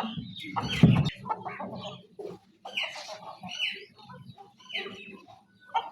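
Chickens clucking with a string of short, higher calls from a flock of hens and chicks, and a loud knock about a second in.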